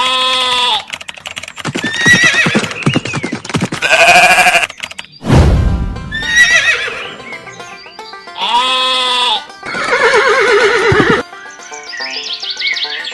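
A string of farm-animal call sound effects, including horse whinnies, each call lasting under a second, over background music. A short heavy thud comes about five seconds in.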